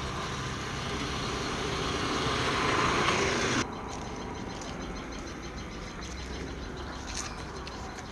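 Truck engine idling steadily, with a rushing hiss that builds up and cuts off suddenly about three and a half seconds in.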